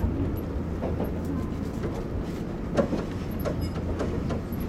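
Electric train running on the line, heard from on board: a steady low rumble from the wheels and running gear, with a few irregular sharp clicks and knocks from the wheels over the track.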